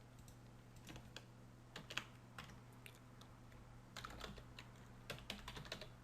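Typing on a computer keyboard: scattered quiet key clicks, in a short flurry about a second in and a quicker run in the last two seconds, over a faint steady electrical hum.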